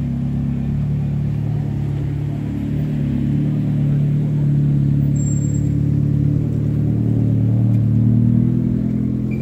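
A motor vehicle's engine running steadily with a low hum, swelling a little louder a few seconds in and again near the end.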